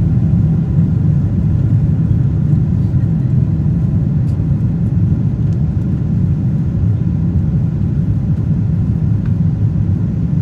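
Steady low rumble inside the cabin of a Boeing 777-200ER, the even drone of the airliner heard from an economy seat.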